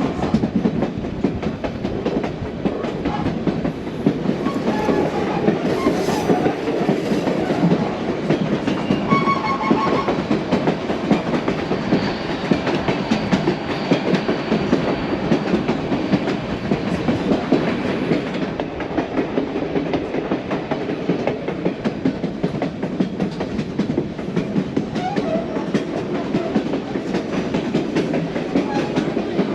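Vintage narrow-gauge passenger coach of the White Pass & Yukon Route rolling along the track, heard from on board: a steady rumble and rattle of wheels on rail, with continual clicking.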